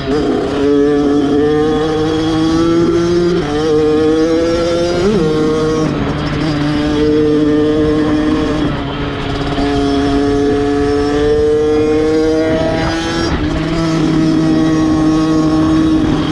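Kawasaki dirt bike engine running under way, its pitch climbing slowly and dropping back several times.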